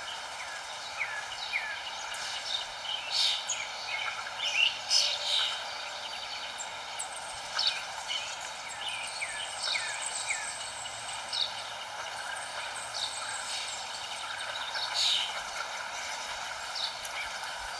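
Small songbirds chirping: many short, quick calls that slide downward in pitch, in clusters near the start and again near the end, over a steady background hiss of outdoor noise.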